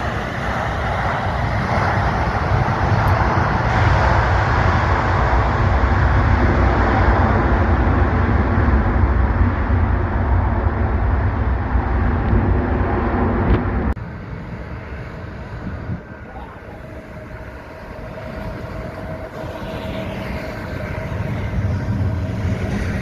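Jet engine noise from a landing Boeing 747-400 freighter: a loud, deep rumbling roar that cuts off suddenly about fourteen seconds in. A quieter engine sound with a faint steady whine follows and builds again near the end.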